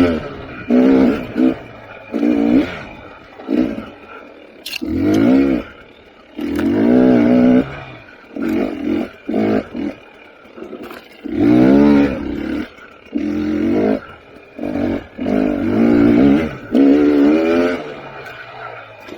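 KTM 300 XC TPI two-stroke dirt bike engine revving in repeated short bursts of throttle, its pitch climbing in each burst and falling back in between.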